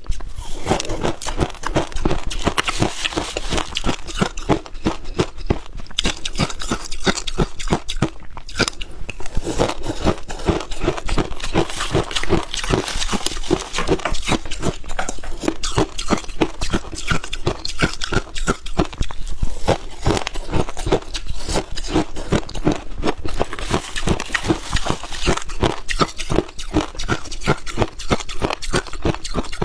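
Freezer frost (white ice) being bitten and chewed: a dense, unbroken run of crisp crunches.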